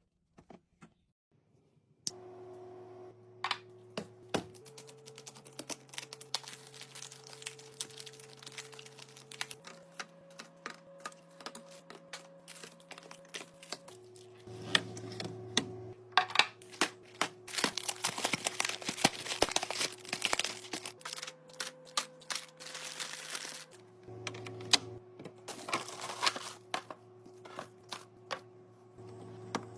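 Quick clicks, taps and plastic crinkling of food packages and containers being handled and set in place during a fridge restock, over soft background music with held chords that change every few seconds. It starts about two seconds in, and the clicking gets busier in the second half.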